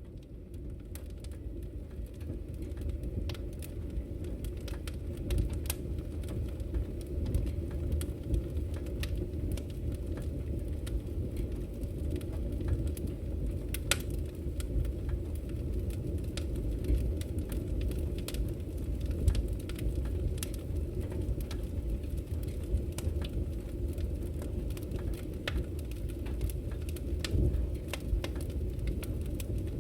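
Wood fire in a fireplace crackling: many sharp pops and snaps over a steady low rumble of the flames, fading in over the first few seconds.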